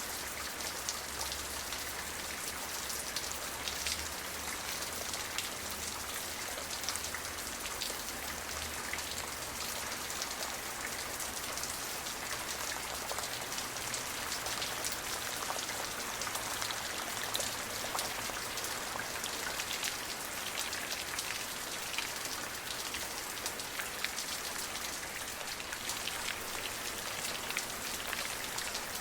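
Steady rain: a continuous hiss of falling rain with many small drop hits ticking through it.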